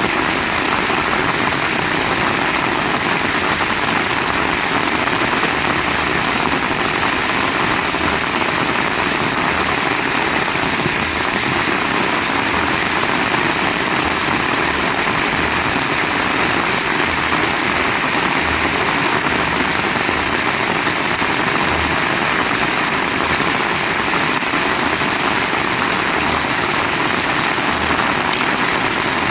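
Heavy rain falling steadily, a dense even hiss, with an uneven low rumble beneath it.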